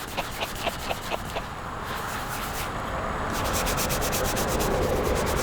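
Sandpaper sanding hardened body filler on a car roof panel: a few short scraping strokes, then quicker continuous rubbing that grows a little louder.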